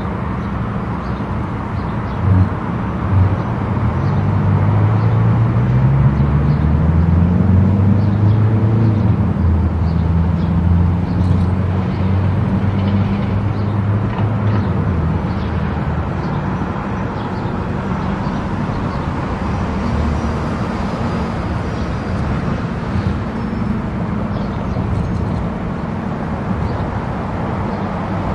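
Car travelling on an expressway: steady tyre and engine noise, with two brief knocks about two and three seconds in. An engine note then rises in pitch for several seconds before levelling off.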